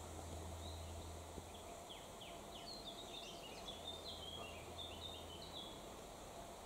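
A small songbird singing: a run of quick high chirps and short falling notes, starting about half a second in, over a faint steady low background hum.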